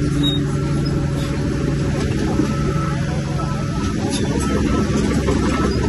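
Heavy earthmoving machine's diesel engine, a bulldozer working, running steadily with a constant low drone.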